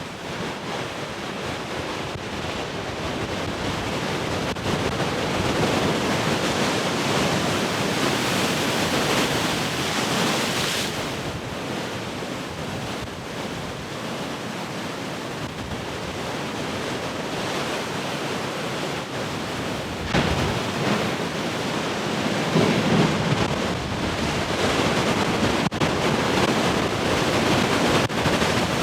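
Large ocean waves breaking and washing in, a continuous rush of surf. It swells in the first third, eases in the middle, and a heavier wave comes in suddenly about two-thirds of the way through.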